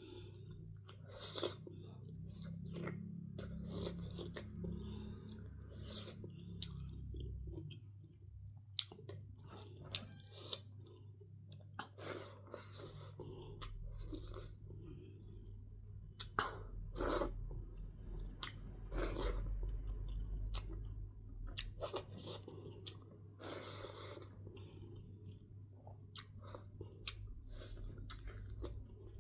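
Close-miked chewing and biting of food, with many irregular wet mouth clicks and occasional crunches.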